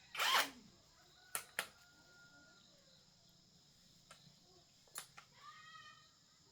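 A short loud noise right at the start, then a few sharp clicks, and a faint bird call near the end.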